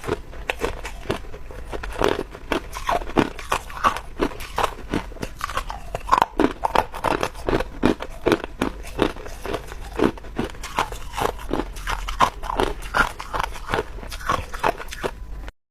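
Chunks of clear ice being bitten and chewed, a fast run of sharp crunches, two or three a second, that cuts off suddenly near the end.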